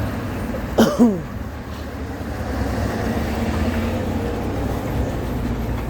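Steady low vehicle rumble. About a second in there is one short call in a person's voice, falling in pitch.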